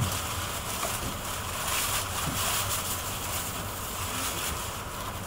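Steady cabin noise of a Renfe AVE S-102 (Talgo 350) high-speed train on the move, heard from inside the passenger car: an even rush of running noise over a low rumble.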